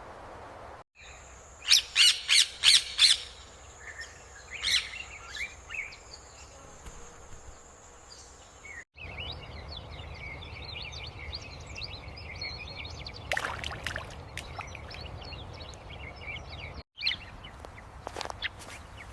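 Wild birds calling: a few loud separate chirps over a steady high tone, then a dense, continuous chatter of many small birds over a low rumble, then scattered chirps again, with abrupt cuts between the parts.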